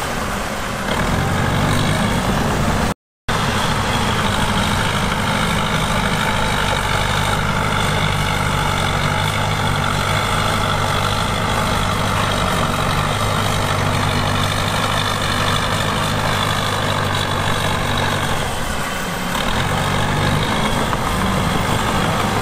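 Heavy diesel engine of earthmoving machinery running steadily, its pitch and level dipping briefly near the end. The sound cuts out completely for a moment about three seconds in.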